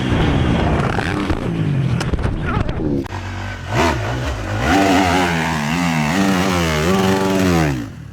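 Motocross dirt bike engines revving, rising and falling in pitch as the throttle opens and closes, with a break about three seconds in.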